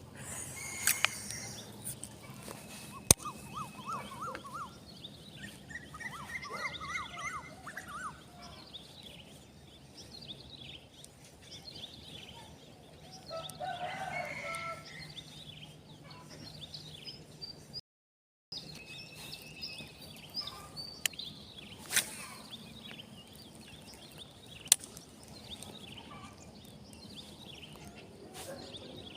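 Birds chirping and calling outdoors, with a louder fowl-like call about 14 seconds in. A few sharp clicks sound along the way, and the sound drops out briefly past the halfway point.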